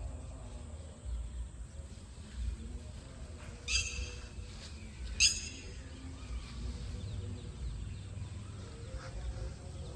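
A bird gives two short, sharp calls, about four seconds and five seconds in, over a low steady rumble of outdoor background noise.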